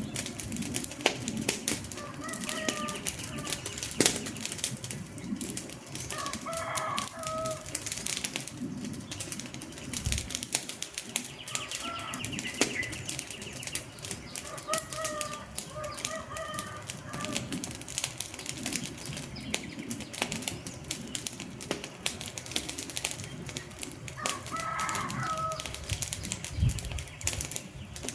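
Wood fire crackling and popping steadily. A short pitched call sounds every few seconds, about six times.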